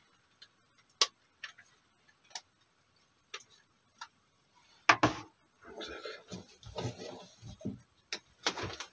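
Scattered sharp clicks and knocks from someone moving about and handling things, with one louder knock about five seconds in, followed by a few seconds of irregular rustling and shuffling.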